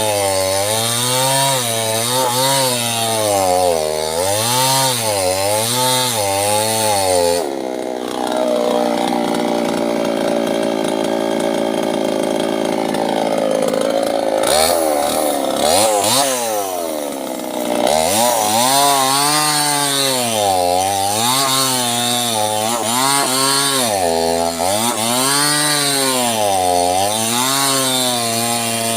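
Small two-stroke chainsaw cutting sengon wood, its engine pitch rising and falling about once a second as the chain bites and eases in the cut. About a third of the way in it runs at a higher, steadier pitch for several seconds, then drops back and carries on cutting.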